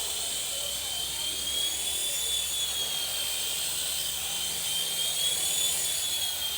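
WLtoys V912 RC helicopter's electric motor and rotor running with a steady high whine, its pitch rising and falling gently as the throttle shifts.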